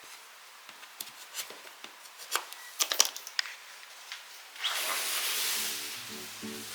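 Light clicks and knocks of cleaning tools being handled, then a hiss lasting about a second and a half about five seconds in. Soft guitar music comes in near the end.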